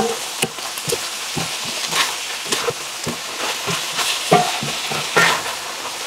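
Chicken pieces and scallions sizzling in a hot enamelled skillet as a wooden spatula stirs them. A steady sizzle runs under repeated short scrapes and knocks of the spatula against the pan.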